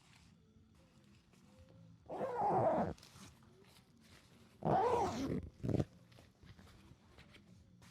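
An animal calling twice with loud pitched calls, each under a second long, the second followed by a short extra note.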